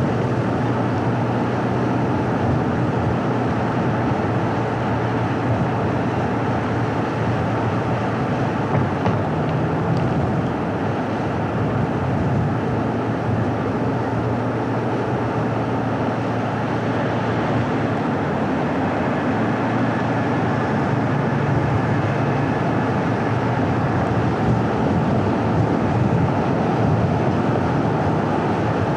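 A car driving along a paved road: steady engine hum with tyre and road noise, the engine's pitch drifting slightly as the car changes speed.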